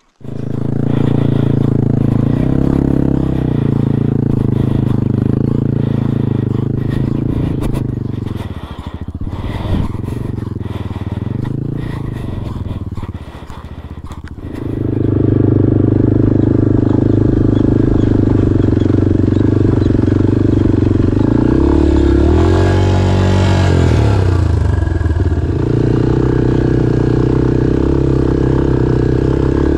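Single-cylinder dual-sport motorcycle engine pulling through sand at steady revs. It eases off and turns quieter and more clattery in the middle, then revs up and back down once about two-thirds of the way through.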